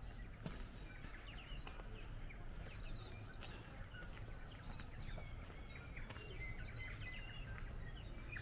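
Small songbirds chirping and twittering, many short calls overlapping, over a steady low rumble of outdoor background noise.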